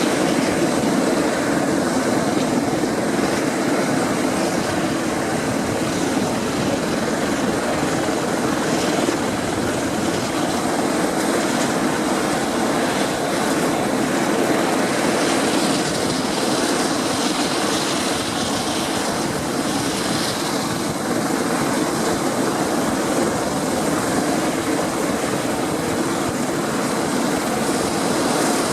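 Dornier Do-27's six-cylinder piston engine and propeller running steadily at a constant pitch.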